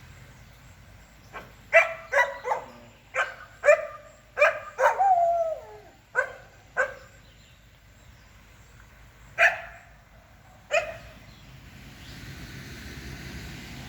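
A dog barking: a run of about ten barks, one drawn out into a falling whine, then two more single barks after a pause.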